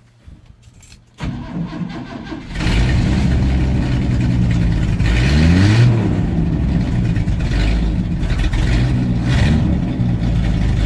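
Pickup truck engine being started: the starter cranks for about a second, the engine catches about two and a half seconds in, then runs loudly with one brief rising rev. The engine is cool, close to a cold start.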